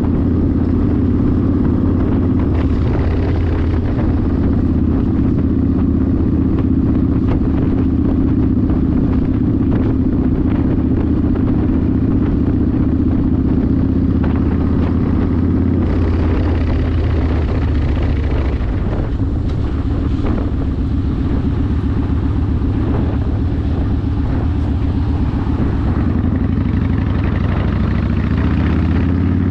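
Yamaha Warrior 1700's V-twin engine running through a custom exhaust while riding at a steady cruise. Its note drops a little about halfway through and rises again near the end.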